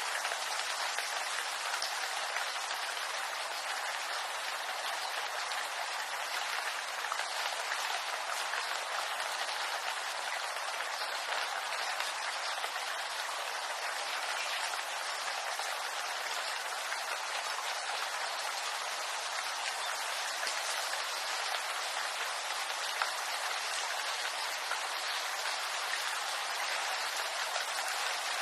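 Steady rain falling on bamboo leaves, an even dense patter of drops.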